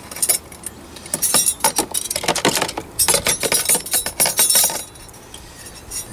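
Small metal diecast toy parts clinking and rattling against each other and their container as they are handled during cleaning. The clinks come in a quick, irregular run and ease off about five seconds in.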